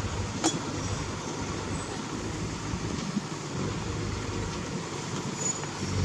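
Heavy diesel earthmoving machinery running steadily, with a single sharp knock about half a second in.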